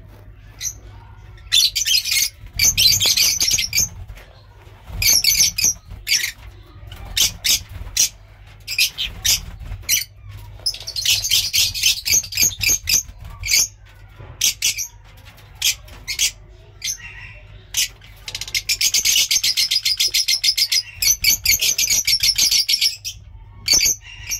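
Lovebirds chattering and calling: shrill, high-pitched calls, with three long runs of rapid repeated chatter between scattered single calls.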